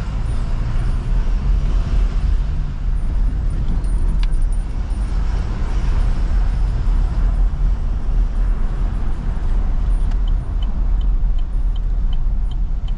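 Car driving slowly, heard from inside the cabin: a steady low engine and road rumble. About ten seconds in, a regular light ticking starts, about two or three ticks a second.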